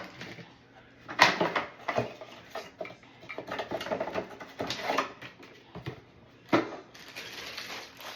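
Handling noise from a replacement toilet tank part: scattered clicks, taps and knocks, the two loudest about a second in and again about six and a half seconds in.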